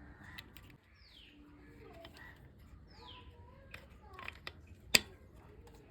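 Two short, high, falling bird chirps over a faint background, and a single sharp knock about five seconds in.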